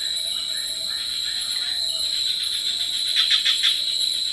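Forest insects calling: a steady high-pitched drone with a rapid pulsing trill joining in about three seconds in.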